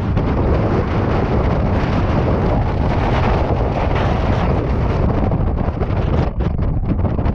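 Gale-force blizzard wind blasting across the microphone: a loud, steady rush of noise with heavy low buffeting.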